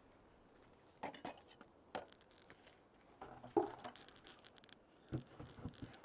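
Handling noises: scattered clicks, knocks and rustling, with the loudest knock about three and a half seconds in.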